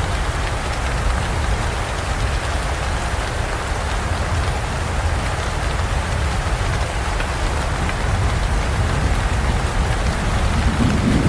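Steady heavy rain falling, a dense even hiss of drops. Near the end a low rumble of thunder starts to build.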